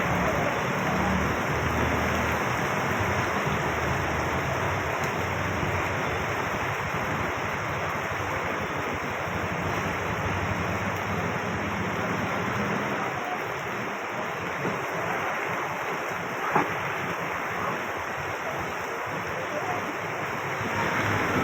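Heavy rain falling steadily, with cars and motorbikes passing on the wet road. A single sharp knock about three-quarters of the way through.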